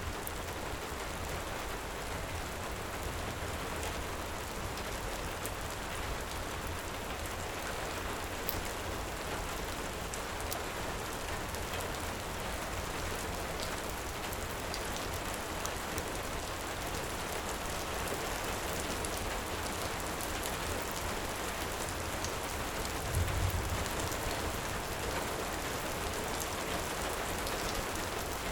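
Steady heavy rain, with faint scattered crackles from a fireplace under it. A brief low thump comes about three-quarters of the way through.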